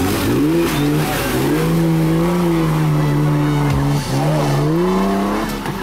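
Engine of a Jeep-style off-road race buggy revving hard under load in deep mud: its pitch climbs over the first second or so and is then held high and steady, with a brief drop about four seconds in before it climbs back up.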